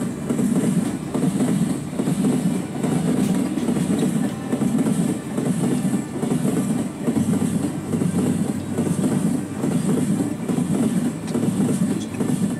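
A train running on rails: a steady low rumble that continues without a break, with a low hum added about halfway through.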